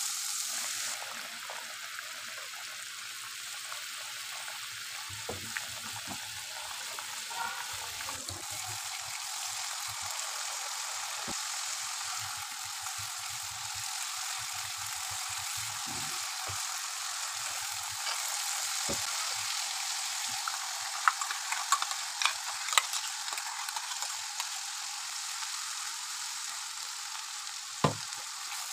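Spice paste sizzling steadily as it fries in oil in a nonstick kadai while it is stirred with a silicone spatula. A few sharp knocks of the spatula against the pan come about two-thirds through, with one more near the end.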